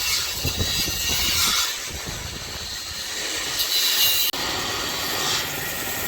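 A steady hiss with two louder surges, about a second and a half and about four seconds in.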